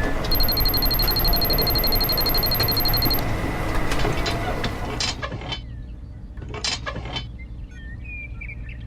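A rapid, evenly repeating high-pitched electronic trill like an alarm bell, lasting about three seconds, followed later by several sharp clicks and knocks.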